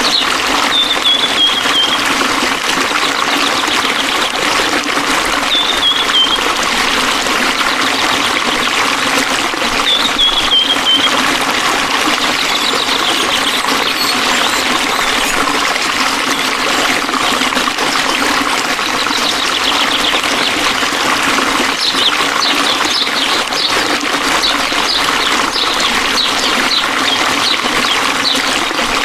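Water flowing and trickling steadily in a forest stream. A bird chirps briefly three times in the first half, each call a short falling note.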